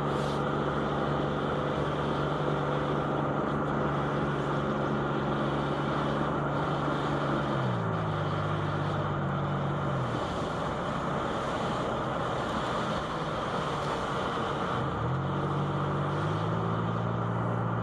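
Car engine and road noise heard from inside the cabin while driving. The engine note drops in pitch and fades about halfway through as the car eases off, then climbs back up near the end as it speeds up again.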